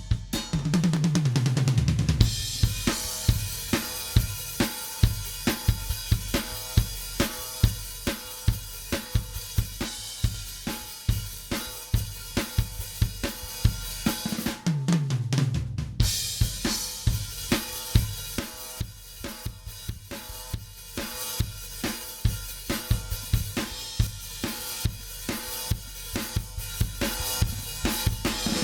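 A recorded rock drum kit playing a steady beat of kick, snare, hi-hat and cymbals, with a descending tom fill near the start and another about halfway through.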